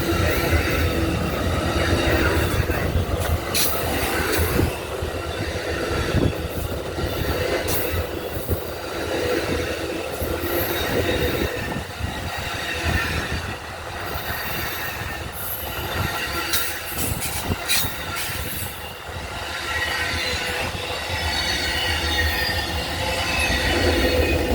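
Amtrak train 52's cars rolling past at speed: a steady rumble of steel wheels on rail, with clicks over the rail joints and intermittent high-pitched wheel squeal.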